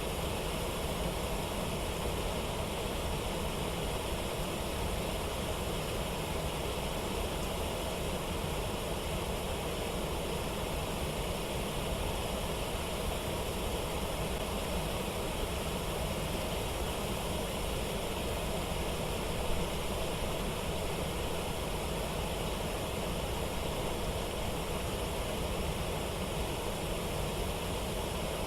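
Waterfall: a steady, unbroken rush of water.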